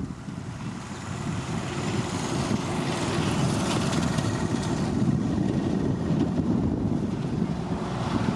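Diesel engine of a motor grader running steadily under load, growing louder over the first couple of seconds and then holding.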